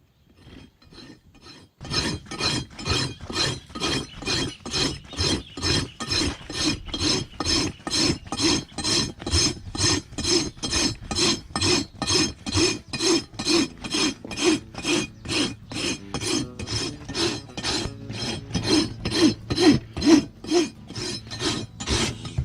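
Hoof rasp filing down an overgrown donkey hoof in quick, even back-and-forth strokes, about two to three a second, after a quieter first two seconds.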